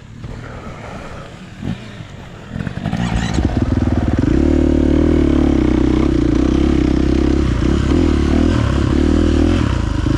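Dirt bike motor running, quiet at first, then loud and steady from about three seconds in.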